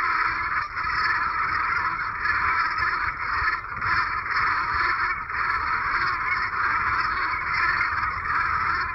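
A large flock of geese calling all at once, their honks blending into a steady, dense chorus, with a low rumble beneath.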